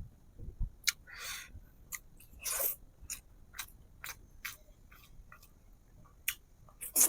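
Close-miked mouth sounds of someone eating: short wet smacks and clicks of chewing, with a few longer crunchy bites, the loudest near the end.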